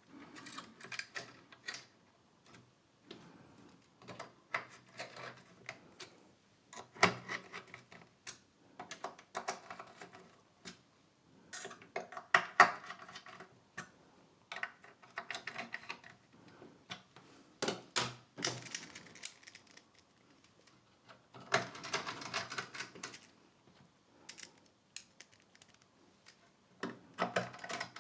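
Irregular clicks, taps and short rattles of small metal parts and hand tools being handled while a power supply module is taken apart, with quiet pauses in between.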